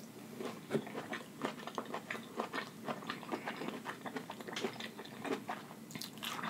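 A person chewing a mouthful of broccoli and rice with lips closed: a run of soft wet mouth clicks and smacks, several a second.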